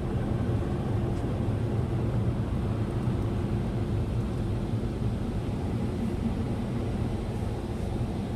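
Steady roar of an automatic car wash's air-dryer blowers, heard from inside the car.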